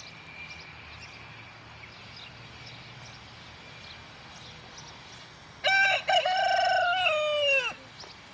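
A rooster crowing once, a loud call of a couple of seconds that drops in pitch at the end. Faint outdoor background before it.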